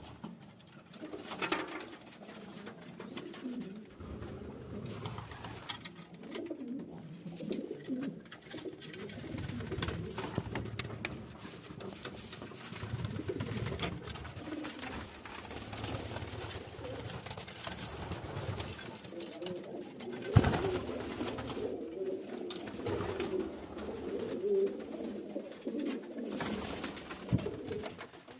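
Domestic pigeons cooing on and off throughout, several birds overlapping. A single sharp knock about 20 seconds in is the loudest sound, with a smaller one near the end.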